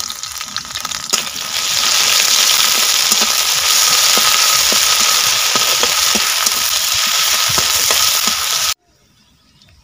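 Onions and ginger-garlic paste sizzling in hot oil in a metal kadai over a wood fire, with a metal spatula scraping and stirring. The sizzling swells about a second and a half in, then cuts off suddenly near the end.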